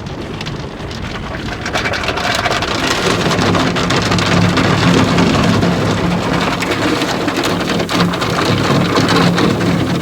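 Car wash water spray pelting the truck's body and windshield, heard from inside the cab, growing louder about two seconds in over a steady machine hum.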